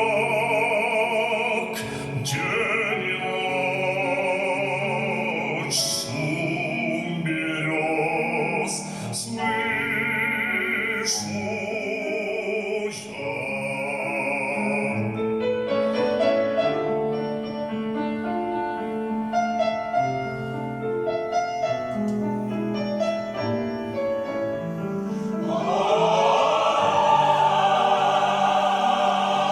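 Classical vocal music: an operatic-style voice singing long notes with wide vibrato over accompaniment, then an instrumental passage with piano about halfway through, and near the end voices with a choir come in loud again on held notes.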